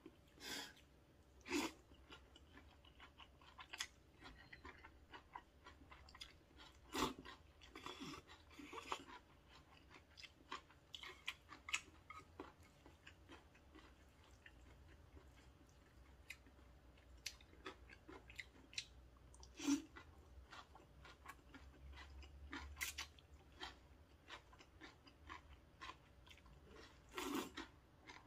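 Close-miked eating: soft, irregular chewing and wet mouth smacks from a mouthful of thin wheat noodles and crunchy julienned vegetables, with a louder slurp of noodles near the end.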